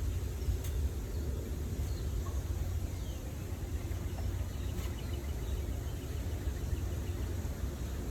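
Outdoor ambience: a steady low rumble with a few faint, brief bird chirps over it.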